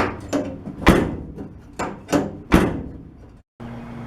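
Pickup truck tailgate being opened and slammed shut several times, with sharp metal clacks of the latches catching and two loud slams. The latch pivots have just been lubricated to free a sticking spring catch. Near the end the sound cuts off abruptly to a steady low hum.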